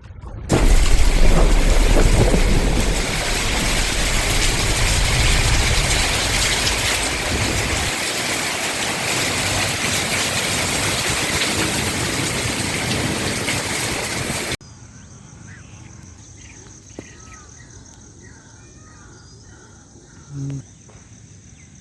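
Heavy rain hissing, with a deep rumble like thunder or wind in the first few seconds. About two-thirds of the way through it cuts off abruptly to a much quieter scene: birds chirping over a steady high-pitched hum, with one low thump near the end.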